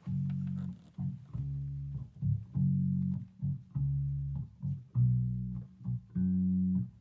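Live band playing the instrumental intro of a song, with bass guitar and guitar carrying a rhythmic pattern of low held notes broken by short gaps.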